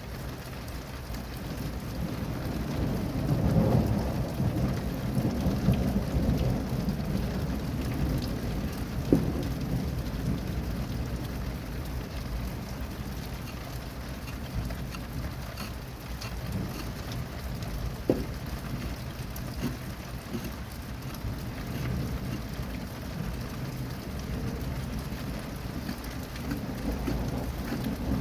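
Steady rain with a long roll of thunder that swells about three seconds in and dies away over the next several seconds. A few sharp ticks stand out over the rain.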